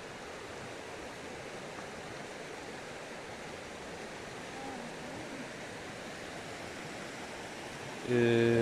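Steady rush of spring water flowing from the pond and its outlet stream. Near the end a person's voice makes a short held tone, like a hum.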